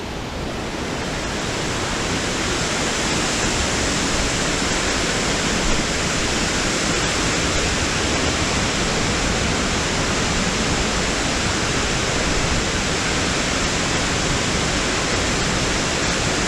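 Waterfall crashing steadily into its pool, a loud, even rush of water that swells slightly over the first couple of seconds and then holds.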